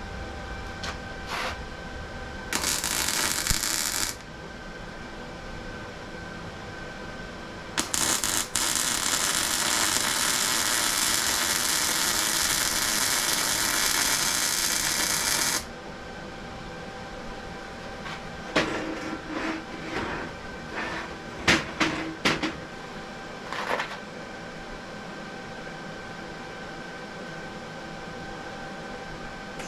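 Plasma cutter cutting steel plate: a short burst of steady hiss, then a longer one of about eight seconds, each starting and stopping abruptly. These are followed by a run of metal clanks and knocks as the pieces are handled.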